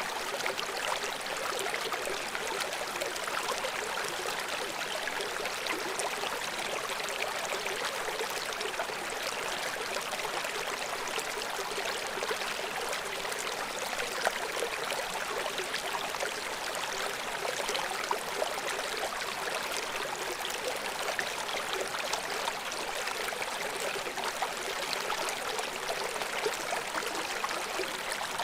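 River water flowing and splashing in a steady rush, with small trickles and splashes throughout.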